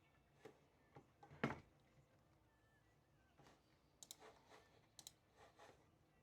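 Scattered small clicks and taps, with one louder knock about a second and a half in and a few quick clusters of sharp clicks later on. These are handling sounds from someone working at a desk.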